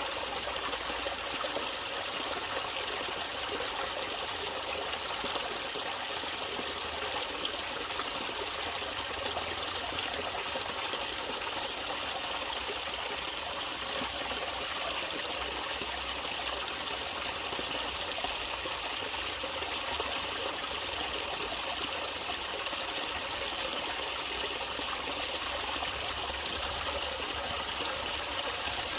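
Water trickling and running steadily in a small stream.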